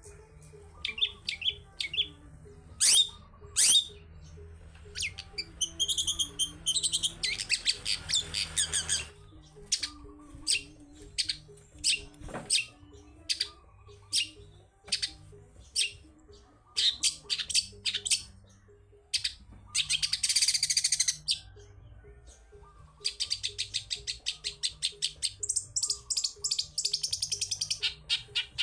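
Long-tailed shrike (cendet) singing: a fast string of short, sharp high notes broken by long, rapid buzzy trills.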